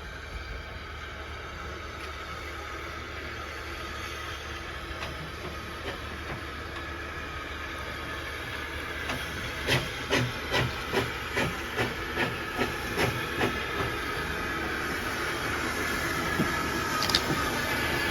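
Steam locomotive arriving: a steady steam hiss that grows louder, with a run of rhythmic clicks, about three a second, partway through.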